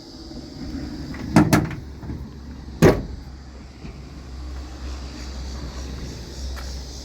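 Three sharp knocks over a steady low rumble: two in quick succession about a second and a half in, then one more about a second later.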